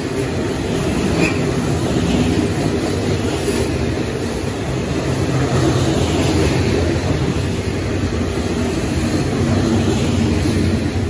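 Coal train hopper wagons rolling past at speed, a steady loud rumble of steel wheels on the rails.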